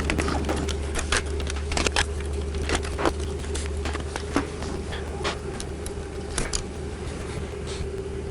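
Small clicks and knocks of plastic blaster parts and screws being handled and fitted as a Nerf Rival Kronos is reassembled, coming irregularly over a steady low hum.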